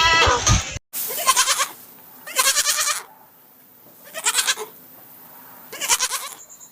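Goat bleating: four short wavering calls at roughly one-and-a-half-second intervals. Under a second in, an earlier pitched call breaks off at a sudden cut.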